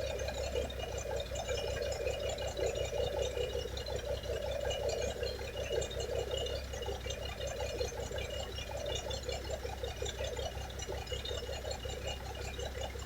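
1975 Kenworth LW924 truck's diesel engine idling steadily, heard from inside the cab.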